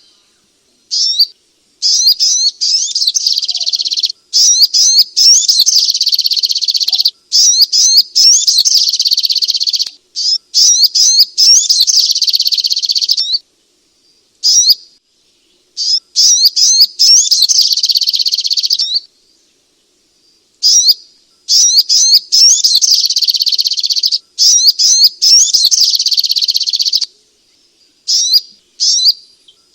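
Sogok ontong (spiderhunter) song: fast, high-pitched chattering phrases of rapidly repeated notes, each running a few seconds, with short pauses between them.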